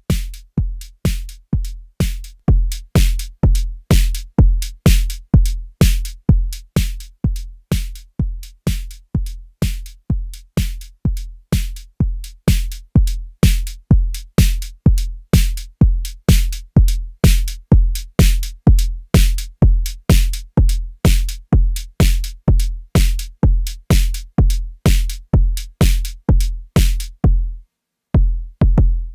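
Arturia DrumBrute Impact analog drum machine playing a steady pattern: a deep kick about twice a second with bright, hissy hits on top. The pattern breaks off near the end, leaving a single last hit.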